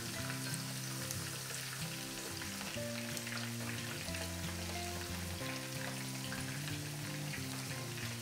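Potato-starch-coated octopus pieces and coriander roots deep-frying in shallow hot oil in a frying pan, a steady sizzle and crackle.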